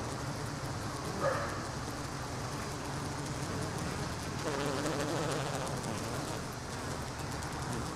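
Honey bees buzzing around an opened hive, a steady hum.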